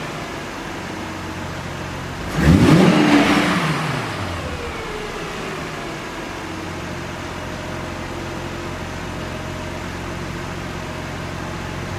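2006 Mercedes-Benz SLK350's 3.5-litre V6 engine revved once about two seconds in, pitch rising quickly and falling back, then idling steadily.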